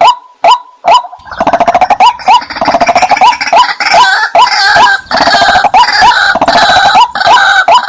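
White-breasted waterhen calls played as a hunting lure. Short, hooked notes repeat at about two and a half a second, and about a second in they give way to a dense, overlapping chorus of calls. The regular repeated notes return right at the end.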